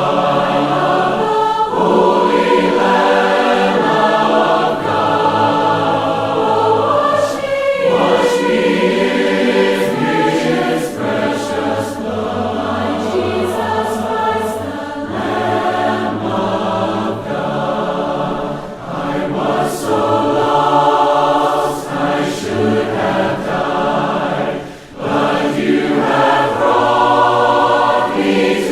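A choir singing a hymn in harmony, unaccompanied, in the a cappella style of Churches of Christ, with short breaths between phrases.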